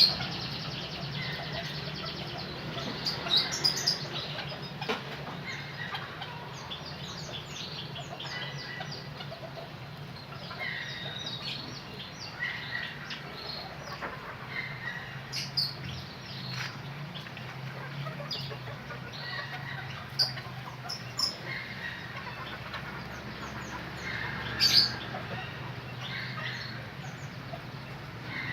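Small cage birds, canaries, chirping: many short, scattered chirps and call notes, with louder sharp calls about three seconds in and again near the end, over a steady low hum.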